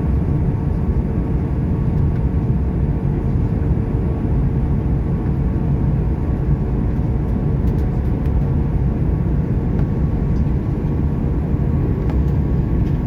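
Steady cabin noise inside an Airbus A310 airliner in flight: a low rumble of engines and airflow with a faint steady hum and a thin high whine over it.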